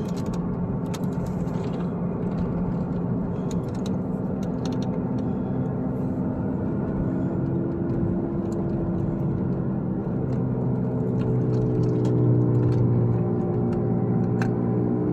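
Cabin road noise of a 2011 Chevrolet HHR under way while turning left, with a low growl that builds about ten seconds in and is loudest around twelve to thirteen seconds. Light ticks are scattered through it. The cause of the growl is not yet diagnosed.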